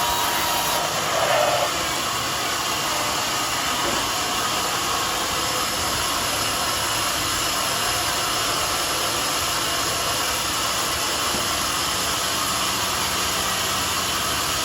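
Homemade sawmill running steadily, a constant machine noise with a brief louder swell about a second in.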